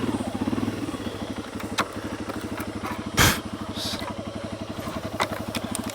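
Honda CRF 300 Rally's single-cylinder engine idling with an even, steady pulse, settling down at the start, with a short clunk about three seconds in.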